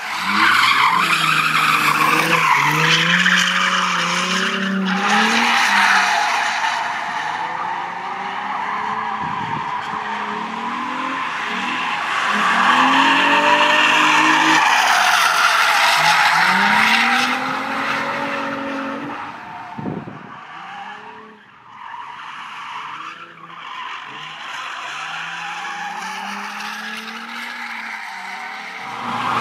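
Nissan Fairlady Z (Z33) with its stock 3.5-litre V6 revving up and down in second gear through drifts, the rear tyres squealing in long slides. The squeal and engine ease off for a few seconds about two-thirds of the way through, then build again.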